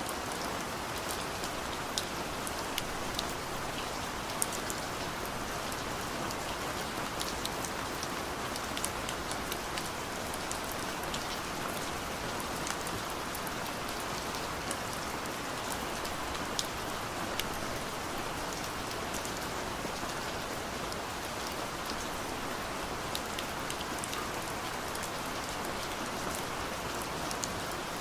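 Steady rain falling on a car's roof and windows, heard from inside the cabin, with many scattered sharp ticks of single drops over an even hiss.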